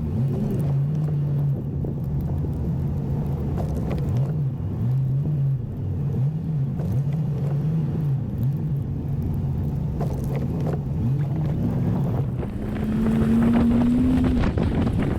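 2004 Chevy 1500 pickup's engine running under load while pushing snow with a straight plow blade, its pitch rising and falling every second or so with the throttle, then climbing higher for a couple of seconds near the end.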